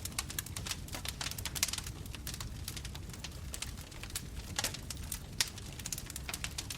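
Wood fire burning, with a dense run of irregular sharp crackles and pops over a low steady rumble of the flames.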